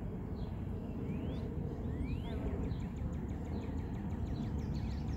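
Birds chirping: two rising whistled calls about one and two seconds in, then a string of quick high chirps. A steady low rumble of outdoor noise runs underneath and is the loudest part.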